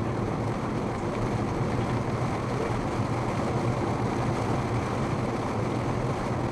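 Steady in-cabin road noise of a Mazda wagon driving on a rain-soaked highway: tyres on the wet road and a low engine and road hum, even throughout with no separate events.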